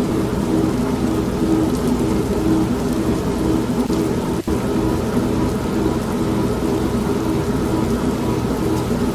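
Steady rain and thunder mixed with an old washing machine humming in a repeating cycle of about one pulse a second. There is a brief dropout about halfway through.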